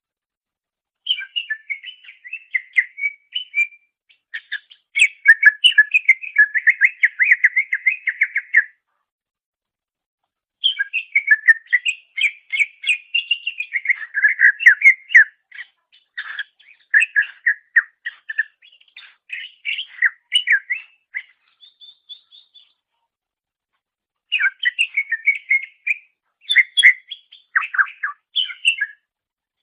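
Green leafbird (cucak ijo) singing: bouts of rapid, varied chirps and whistled notes lasting a few seconds, separated by short silent pauses. A brief thin high note sounds about two-thirds of the way through.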